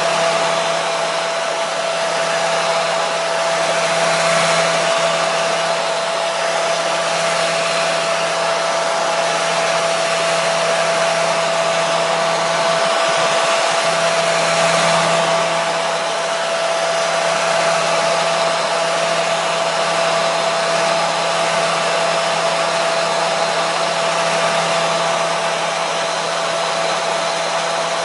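Hair dryer running continuously: a steady rush of air with a constant motor whine, swelling and easing slightly every few seconds.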